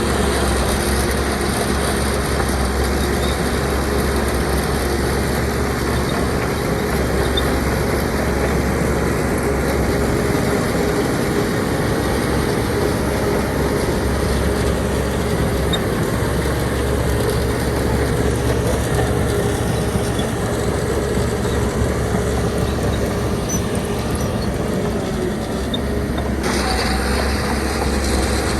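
Shantui DH17C2 crawler bulldozer's diesel engine running steadily as it works. Near the end the higher part of the sound drops away suddenly.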